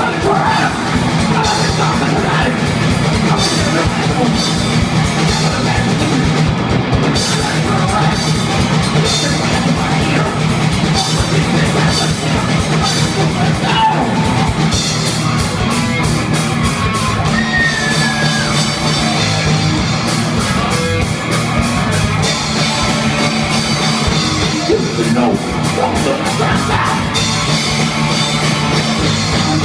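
Heavy metal band playing at full volume, with rapid, driving drumming on a drum kit.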